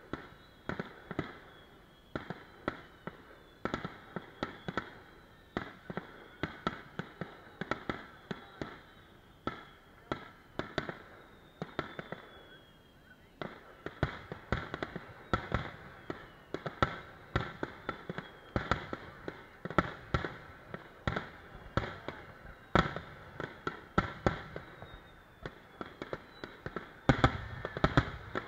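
Fireworks going off: a rapid, irregular string of bangs and crackles that grows denser about halfway through, with a loud burst of bangs near the end. Thin whistling tones sound among them.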